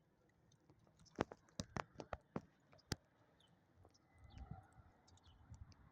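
A quick, irregular run of about seven sharp clicks or taps in the first half, followed by a muffled low rumble.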